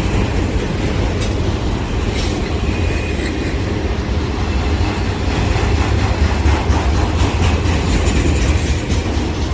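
Freight train cars rolling past, a steady low rumble of steel wheels on the rails with scattered clicks. A brief faint high squeal about three seconds in.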